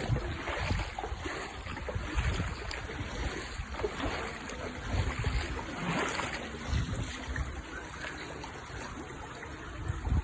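Flowing river water, a steady rushing hiss, with irregular low rumbles underneath.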